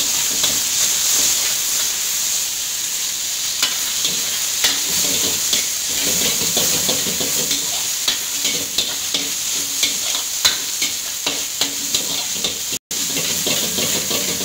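Julienned chicken and garlic sizzling in hot oil in a wok as they are sautéed, with a metal ladle clacking and scraping against the wok many times. The sound cuts out for a split second near the end.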